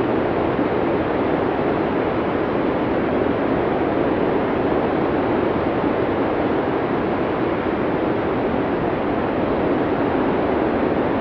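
Blizzard wind sound effect: strong wind blowing steadily as an even rushing noise, weighted toward the low-middle, without distinct gusts or howls.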